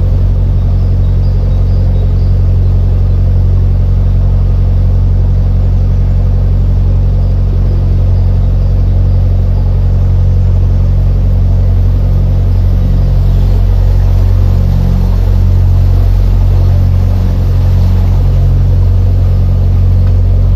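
Narrowboat's diesel engine running steadily under way, a deep low drone whose note wavers a little in the second half.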